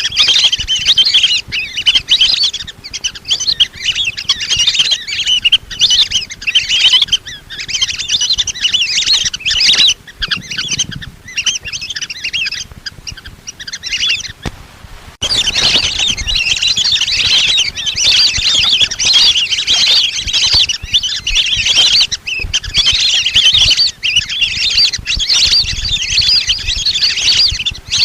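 Lesser whistling ducks calling as a flock: dense, continuous high whistled chirps and twitters, with a short break about fifteen seconds in. It is a decoy call used to lure whistling ducks.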